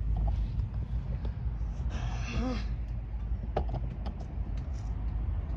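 A steady low rumble, with a short voice-like sound about two seconds in and a few faint clicks.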